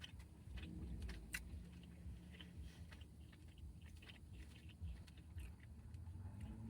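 A person faintly chewing a mouthful of chicken shawarma and rice, with scattered small clicks and crunches.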